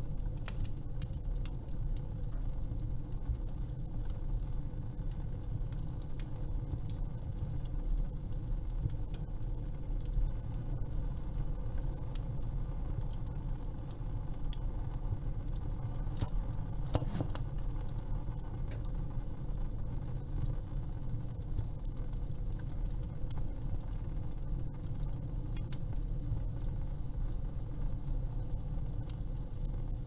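Wood fire crackling: frequent sharp pops and snaps over a steady low rumble, with one louder pop about seventeen seconds in.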